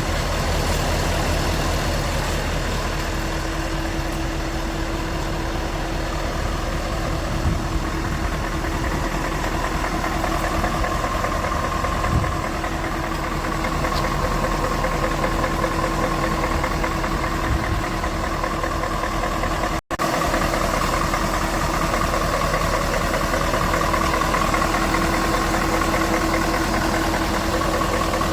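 Scania R580 truck's V8 diesel engine idling steadily. The sound cuts out for an instant about twenty seconds in.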